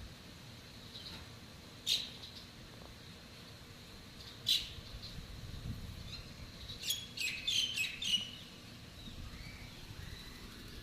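Wild birds giving short, sharp chirping calls: one about two seconds in, another a few seconds later, then a quick run of several chirps near the end.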